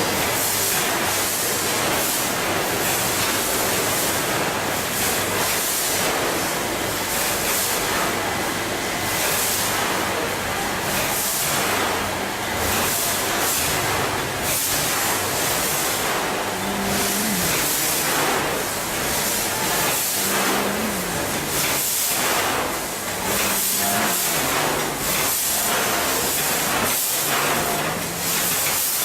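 Packaging machine running: a steady, dense mechanical noise with many short clicks.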